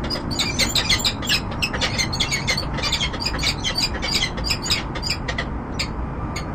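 Peregrine falcon giving rapid, sharp, high-pitched calls, several a second, that thin out about five seconds in to two last single calls, over a steady low hum of city noise.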